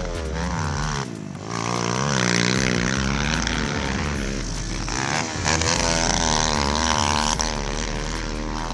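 Pit bike engines revving hard, their pitch rising and falling again and again as the riders open and close the throttle and shift.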